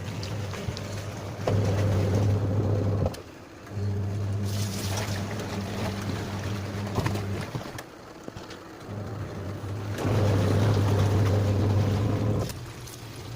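Sanken twin-tub washing machine's wash motor running in stop-start bursts of a few seconds, a steady mains hum with water churning in the tub during the louder bursts.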